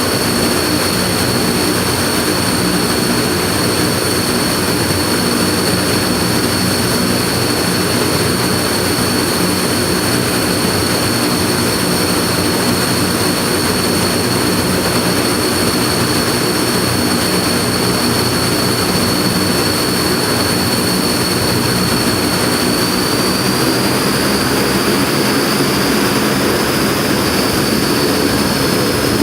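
Turboprop engines of a Shaanxi Y-8F-200W transport aircraft running on the ground: a steady high turbine whine over a low propeller drone. The whine rises slightly in pitch about three-quarters of the way through.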